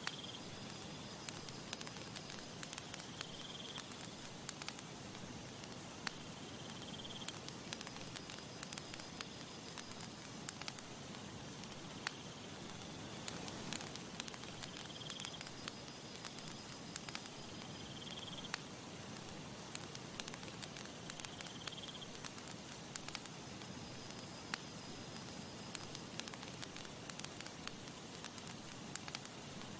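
Campfire crackling, with irregular sharp pops over a soft, steady hiss of breeze. A short high chirp recurs every three seconds or so, along with a fainter high, thin tone at intervals.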